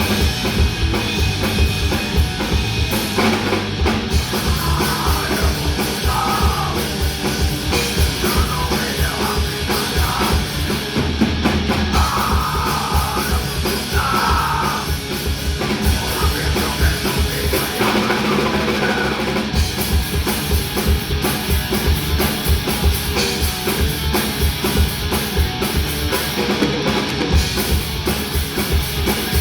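Live hardcore punk / crossover thrash trio playing: distorted electric guitar and bass over fast, dense drum-kit beats.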